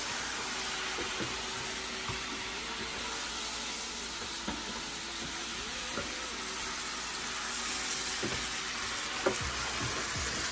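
Pieces of grouper head with onions and sweet peppers sizzling steadily in a hot stainless-steel pan as they are stirred with a wooden spoon. The spoon gives a few light knocks against the pan now and then.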